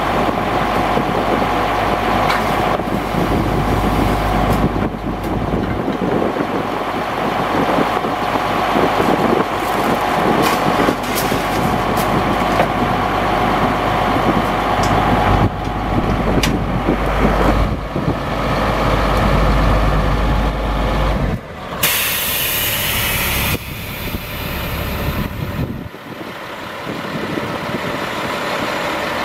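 Chevrolet C7500 ladder truck's engine running steadily, with a loud hiss of released air lasting about two seconds near the end, after which the engine sound drops lower.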